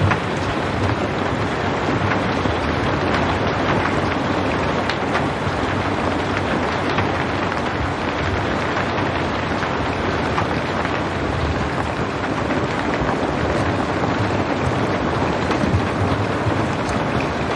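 Steady rain falling: an even hiss with scattered drop ticks, with no thunder.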